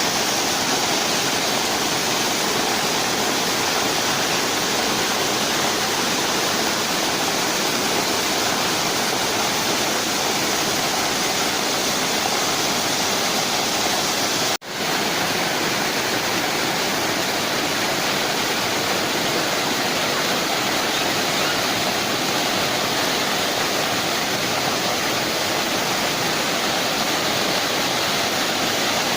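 Jana waterfall: a steady, dense rush of falling water, with a split-second break about halfway through.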